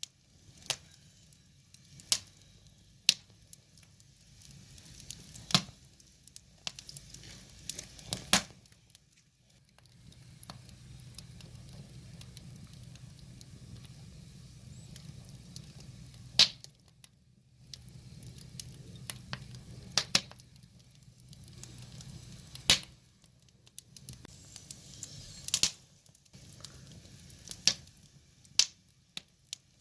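Wood fire burning, with a low hiss and frequent sharp crackles and pops of splitting logs at irregular intervals.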